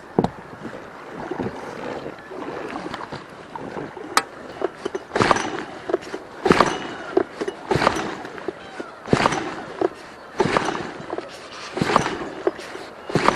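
Oars rowing an inflatable rubber boat: a stroke with splashing and knocking about every second and a half, settling into an even rhythm about five seconds in.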